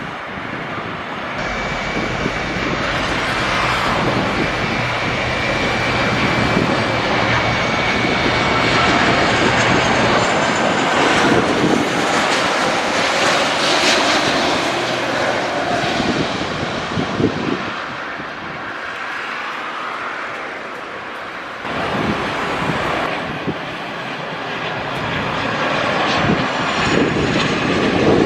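Jet airliner passing close by. Its engine noise swells to a peak about halfway through and then eases, with a thin high whine early on, and rises again near the end.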